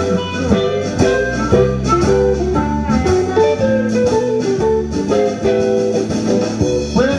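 Blues band playing live, a guitar carrying the melody with bent notes over a bass line.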